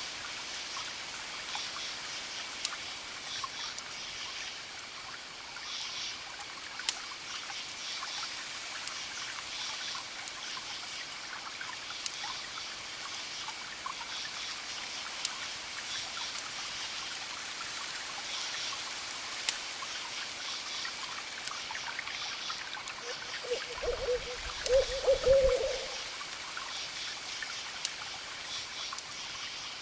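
Campfire crackling with scattered sharp pops over a steady chorus of chirping crickets. About three-quarters of the way through, a low hooting call sounds for a couple of seconds and is the loudest thing heard.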